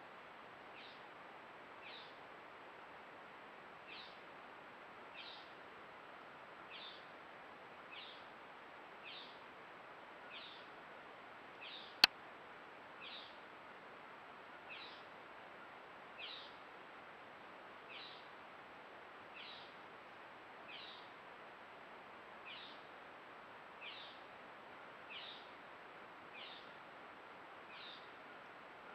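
A bird repeating a short, high, downward-slurred call about every second and a half, over a faint steady hiss. A single sharp click about twelve seconds in.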